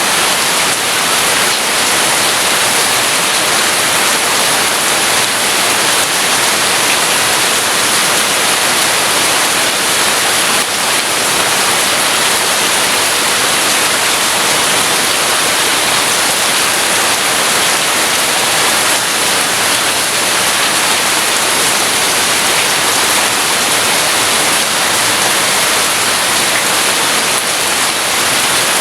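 Rain falling steadily, a dense even hiss with no thunder claps or rumbles standing out.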